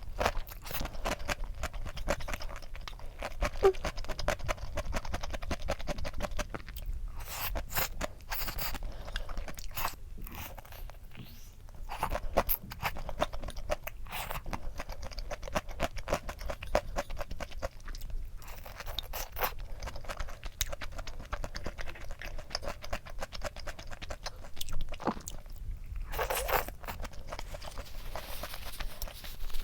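Close-miked chewing and crunching of crisp food, a steady run of crackly bites with short pauses in between.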